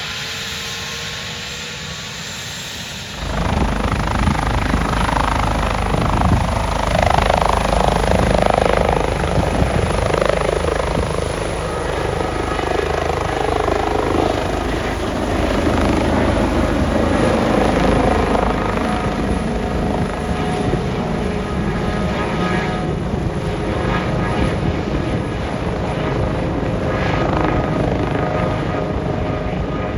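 Helicopter rotors and engine running close by, loud and steady. The sound gets suddenly louder about three seconds in.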